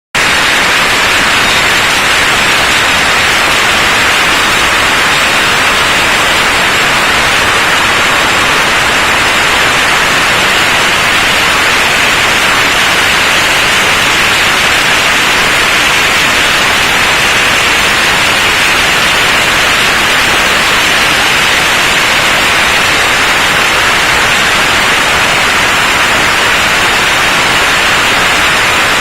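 Loud, steady noise of a ferry's main engine room with the four main engines running, an unbroken mechanical din that does not change.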